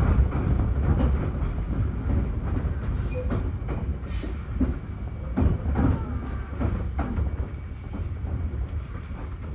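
Running sound of a JR 211 series electric multiple unit's motor car (KuMoHa 211) rolling slowly at about 20 km/h: a low rumble with irregular clacks from the wheels on the track, getting a little quieter across the stretch.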